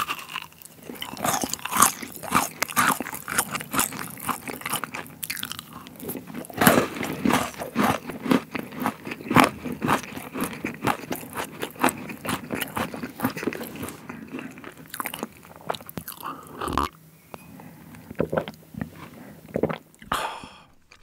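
Close-miked biting and chewing of a dark chocolate rocky road bar with marshmallow inside. Dense, crisp crunches last for roughly the first fifteen seconds, then thin out to sparser, softer chewing near the end.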